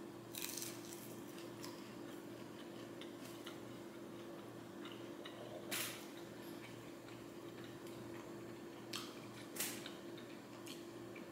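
Faint chewing of a fried spring roll, with scattered soft crunches and small mouth clicks over a steady low hum.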